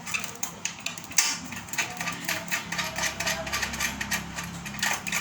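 Small metal machine parts and bolts being handled, with many short clicks and knocks.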